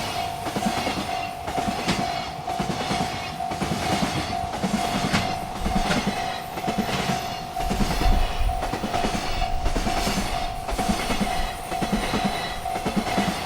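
Freight train rolling past, its wagons clattering in a steady repeating rhythm, about two to three knocks a second, over a low rumble. A steady single tone sounds throughout.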